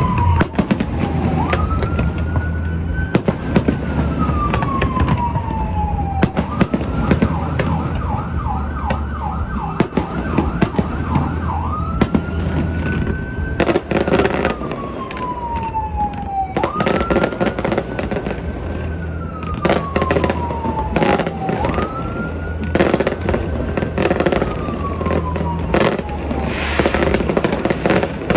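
Fireworks bursting in a rapid string of bangs while an emergency-vehicle siren sounds over them: a slow rising and falling wail that switches to a fast yelp for about five seconds a quarter of the way in, then returns to the wail.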